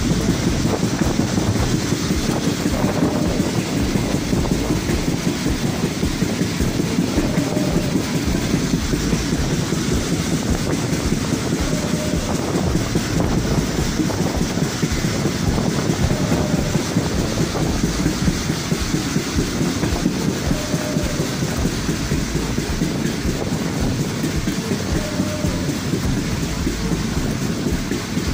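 A moving Pakistan Railways passenger train running at speed, heard from on board: a steady rumble and rush of the wheels on the rails.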